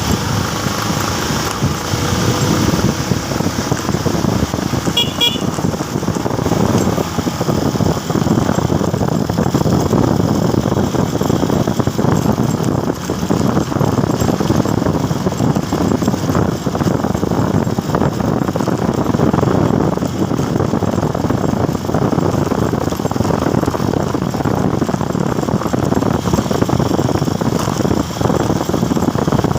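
Motorcycle on the road in traffic: steady engine, tyre and wind noise, with a short vehicle horn toot about five seconds in.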